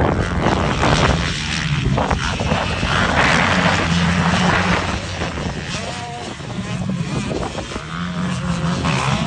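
Motocross motorcycles racing, their engines revving up and down.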